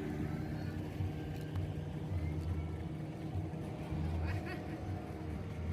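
A boat's engine running steadily as a low, even drone.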